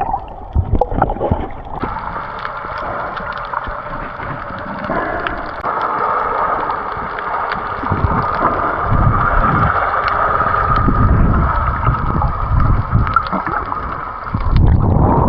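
Water gurgling and sloshing, with an uneven rumbling wash and a few small knocks.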